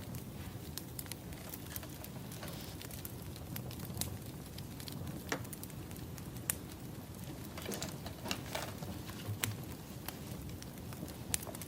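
Wood fire burning, crackling with irregular sharp pops over a low steady rumble.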